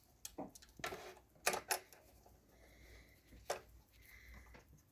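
Scattered sharp clicks and knocks from parts of a Pfaff 204 sewing machine being handled and set, about half a dozen at irregular spacing, most in the first two seconds and one more past the middle.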